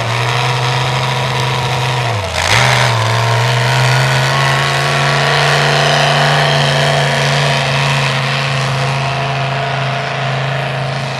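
A tractor-pull tractor's engine running loud and hard at steady high revs. About two seconds in the revs dip briefly, with a short sharp burst of noise, then recover and hold.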